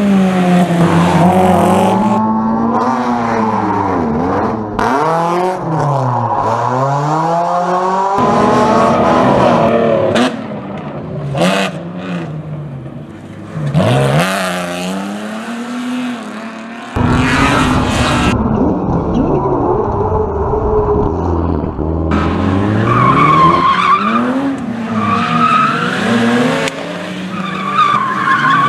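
Rally car engines revving hard and dropping back through gear changes as the cars are driven at speed, in a series of short abrupt cuts. Tyres squeal repeatedly in the second half.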